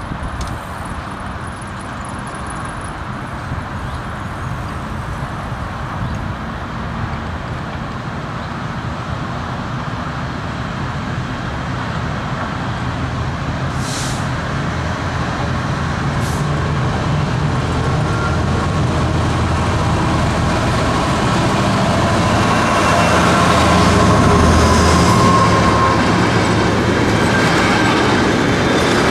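Intermodal container freight train approaching and passing close by, its rumble growing steadily louder and peaking a few seconds before the end as the locomotive goes past, then the running of the container wagons.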